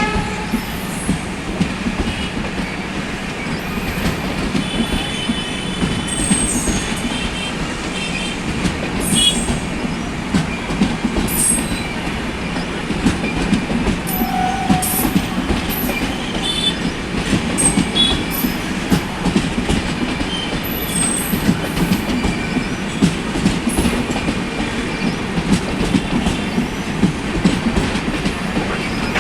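Coaches of a departing long-distance Indian express train rolling past, wheels clattering steadily over the rails, with many brief high squeals from the wheels throughout.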